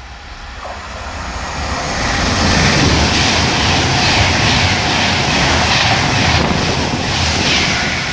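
Class 390 Pendolino electric train passing through the station at high speed. The rush of wheels and air builds over the first couple of seconds into a loud, steady roar, with repeated swells as the carriages go by, then eases slightly near the end.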